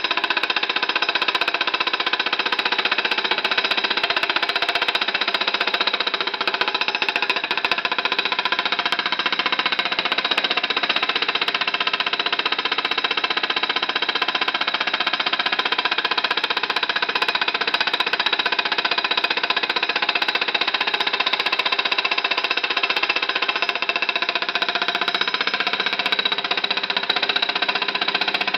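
Small home-made Stirling hot-air engine, a metal cup of steel wool with a silicone bellows and brass funnel, running with a steady rattling buzz as it vibrates on an aluminum plate.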